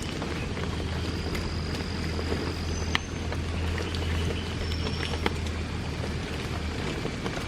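Heavy rain falling steadily, with scattered sharp drip taps and a few brief, thin high-pitched calls from a frog or insect.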